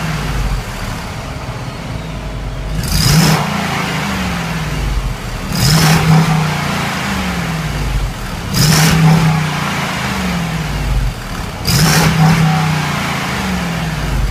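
Jeep Grand Cherokee SRT-8 V8 through an aftermarket exhaust, idling and blipped four times, about every three seconds, each rev rising sharply and falling back to idle.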